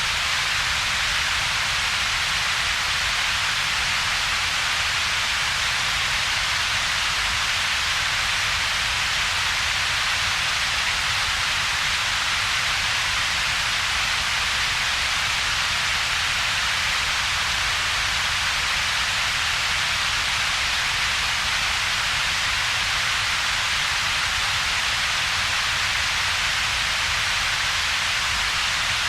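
Steady synthetic double-peaked noise: a low rumble band and a stronger bright hiss band, with a hollow gap between them. It stays unchanged throughout.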